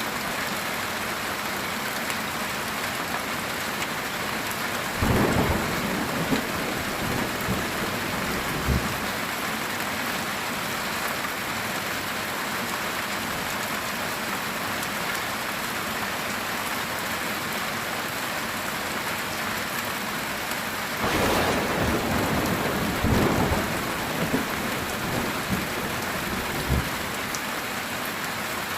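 Heavy rain on a metal tin roof, a steady hiss, with two rolls of thunder: a short one about five seconds in and a longer one about twenty-one seconds in.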